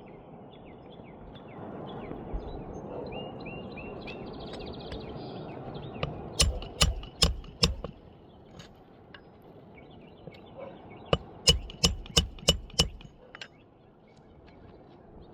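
A hammer driving roofing nails into an asphalt shingle: a run of about four sharp blows, then after a pause a second run of five or six, as the shingle is nailed down along its nail strip. Birds chirp faintly in the first few seconds.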